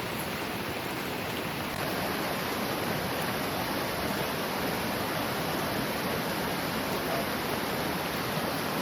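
Heavy rain pouring steadily in a dense, even hiss, getting a little louder about two seconds in.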